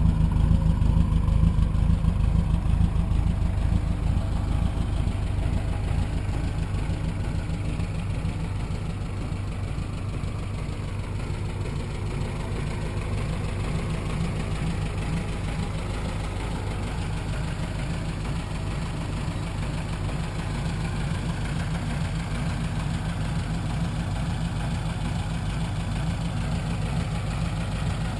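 BMW 2002 inline-four engine, swapped into a Triumph Spitfire, idling steadily. It is a little louder for the first few seconds, then settles to an even idle.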